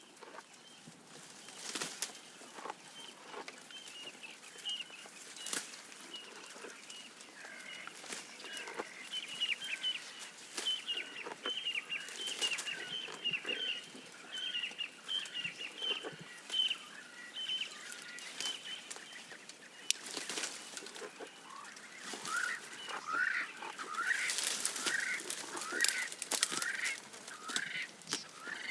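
A giraffe stripping and chewing leaves, heard as sharp crunches and rustles throughout. Birds call over it: a run of short repeated chirps from about eight seconds in, and a series of rising calls near the end.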